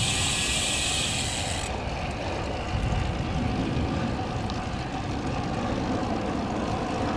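Wind rumbling over the microphone and road noise of a road bike at speed. In the first couple of seconds a high freewheel buzz from the coasting rear hub runs on and stops abruptly, as pedalling resumes.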